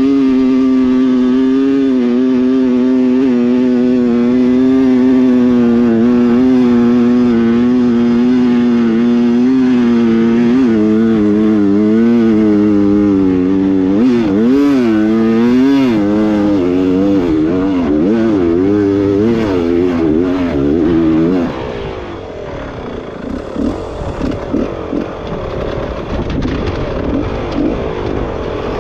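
Dirt bike engine running at steady high revs. About a third of the way in the pitch starts rising and falling with the throttle. Near the end it drops to a quieter, rougher sound.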